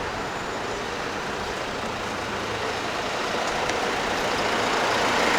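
Street traffic noise from passing motor vehicles, growing steadily louder toward the end as a vehicle comes closer.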